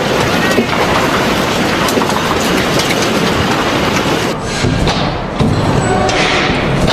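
Strong earthquake shaking: a loud, continuous rumbling and rattling clatter as the ground cracks. It eases for about a second past the middle, then comes back.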